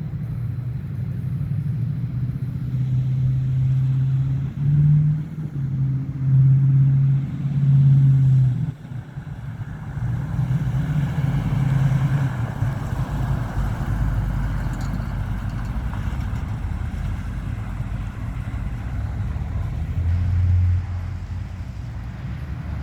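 A 1970 Chevrolet C10 pickup's 395 cubic-inch V8 running under way. It rises in a few loud pulls around the first several seconds and drops off suddenly near the middle. It then settles into steady running, with one more brief rise near the end.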